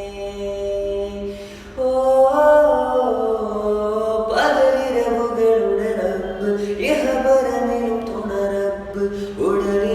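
Unaccompanied male voice singing long, held melodic phrases with gliding ornaments.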